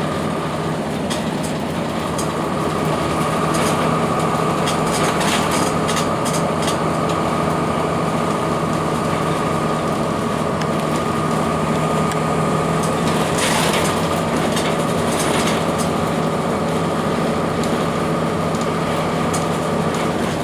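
A 2002 Blue Bird CS transit bus's Cummins ISC diesel engine and Allison B400R transmission running steadily, with a steady whine over the engine hum and scattered rattles and clicks.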